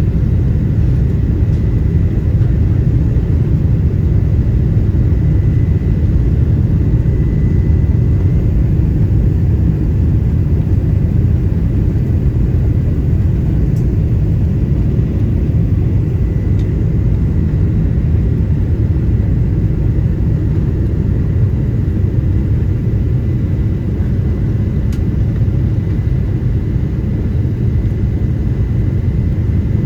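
Steady low rumble of engine and airflow noise inside the cabin of a Boeing 777-200 airliner, with a faint, thin, steady whine above it.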